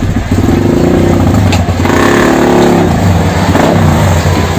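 Kawasaki KLX supermoto's single-cylinder four-stroke engine idling, revved once about two seconds in, then dropping back to idle. This is a throttle test of a newly fitted quick-action YZ throttle.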